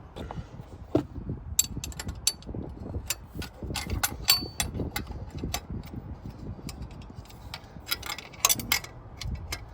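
Irregular metallic clicks and clinks as exhaust manifold bolts and hardware are fitted by hand, with ratchet-like ticking while a bolt is run in.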